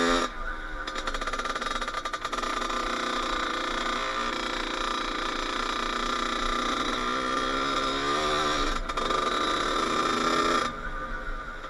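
Kawasaki KX80 two-stroke dirt bike engine being ridden, its pitch rising and falling with the throttle. The sound drops out briefly about nine seconds in and eases off near the end.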